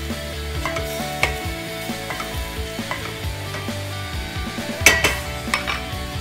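Minced beef sizzling as it browns in a stainless steel pan, stirred with a wooden spoon that scrapes and knocks against the pan, with the loudest knocks about five seconds in.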